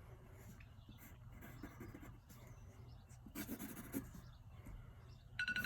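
Faint scratching of a pen on paper during a quick timed sketch, with a brief louder rustle about three seconds in. Near the end a digital timer starts beeping rapidly, marking the end of the 10-second drawing time.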